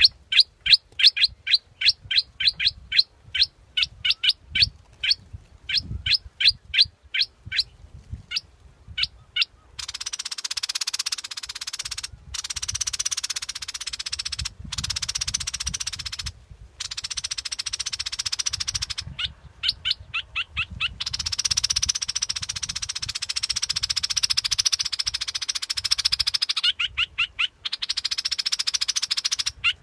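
Bulbul decoy call: a rapid run of short, sharp whistled chirps, about three a second, that thins out and stops after about ten seconds. A loud, steady, hissing buzz then takes over, broken by a few short gaps, and two more brief runs of chirps come through it.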